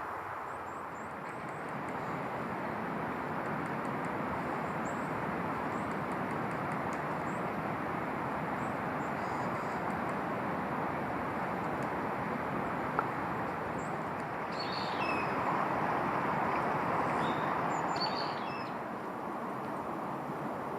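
Small birds giving short, thin, high chirps, several in quick runs, with a few louder calls about fifteen and eighteen seconds in. Under them runs a steady rushing noise.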